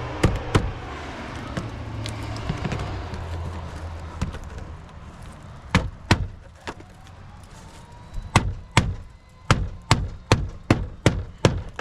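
Hammer driving a nail into a roof shingle. There are two strikes at the start and two more about six seconds in, then a quicker run of about eight blows near the end as the nail is set.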